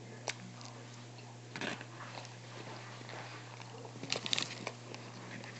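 A child chewing and biting food close to the microphone, with a few short clicks and crackles, the busiest cluster about four seconds in, over a steady low hum.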